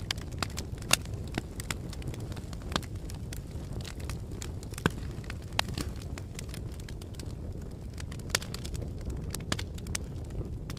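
Fire crackling: a steady low rumble of burning with irregular sharp pops and snaps, a handful of them louder than the rest.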